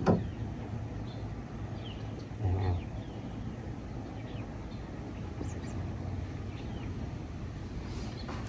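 Birds chirping faintly over a steady outdoor background hiss, with a sharp knock right at the start and a short, louder low sound about two and a half seconds in.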